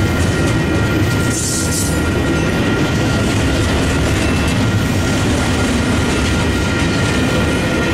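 Double-stack intermodal freight train's container cars rolling steadily past: a loud, even rumble and clatter of wheels on rail, with steady high-pitched tones above it.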